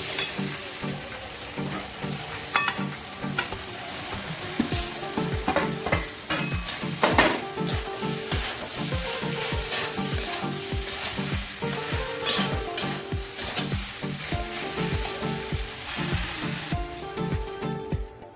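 Food sizzling in hot oil in a pan as it is stirred, with a few sharp clicks of a utensil against the pan. The sizzle drops away near the end, leaving light background music.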